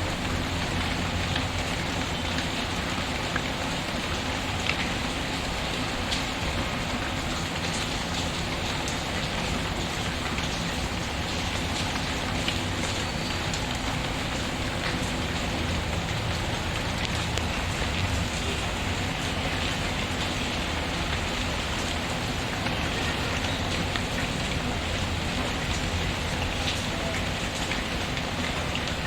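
Steady rain pattering, with the occasional faint crackle of a wood fire.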